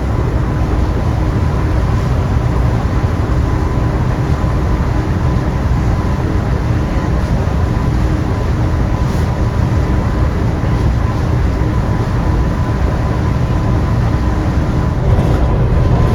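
Twin outboard motors running steadily at high cruising speed, about 4,800 rpm, a deep steady drone with a faint high whine over the rush of water along the hull.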